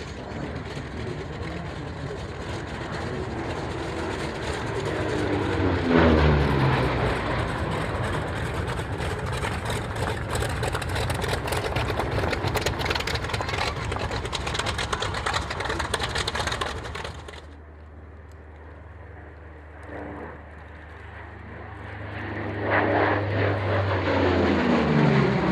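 Twin Allison V-1710 V12 engines of a P-38 Lightning flying past, the engine note falling in pitch as it passes about six seconds in. The sound drops off abruptly about two-thirds of the way through to a quieter steady drone. A second pass with a falling note comes near the end.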